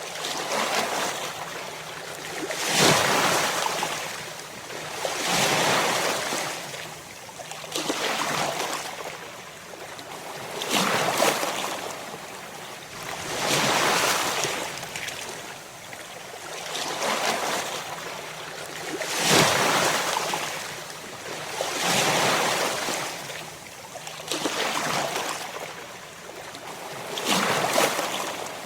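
Ocean waves breaking and washing in, about ten surges of surf, each coming every two to three seconds, swelling and then fading.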